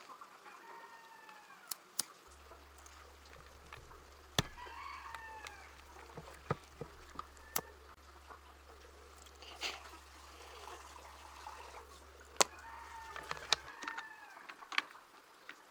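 Chickens clucking in short curved calls, with a dozen or so sharp clicks and taps. A low steady hum starts about two seconds in and stops near the end.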